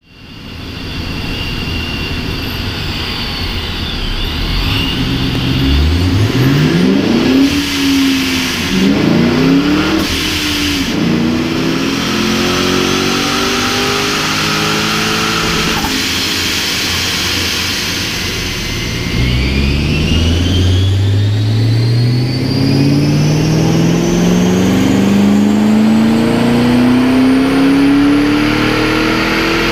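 Supercharged V8 of a 2008 Mustang GT with a centrifugal ProCharger, running on a chassis dyno. It idles, is blipped twice about six and nine seconds in, then from about two-thirds of the way through pulls long and steadily under load, its pitch climbing evenly with the supercharger's whine rising with it.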